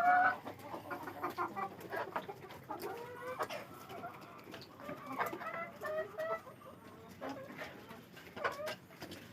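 Domestic chickens clucking, many short calls throughout, loudest at the very start, with scattered clicks and taps.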